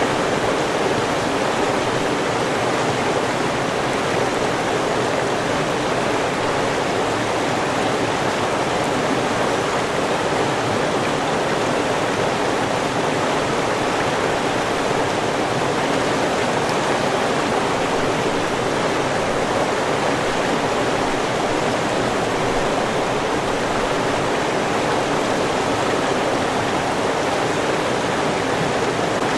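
River water rushing over rocks, a steady, even flow.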